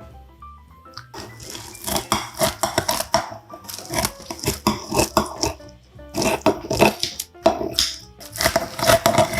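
Close-miked crunching and chewing of a crispy zucchini-chive pancake: clusters of sharp crackly crunches start about a second in and come in bursts with short pauses. Soft background music plays at the start.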